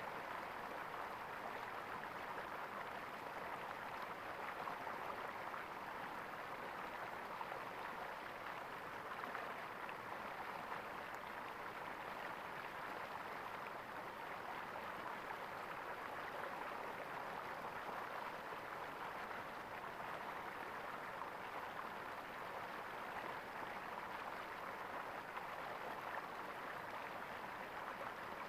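Flowing water gurgling in a steady, unbroken stream.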